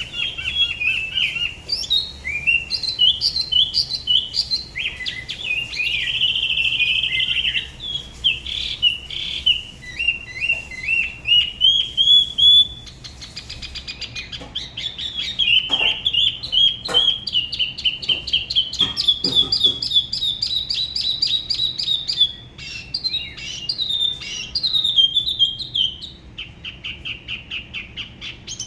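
Spot-throated babbler singing a long, varied song: quick runs of short notes, buzzy trills and wavering, rising phrases, with hardly a pause.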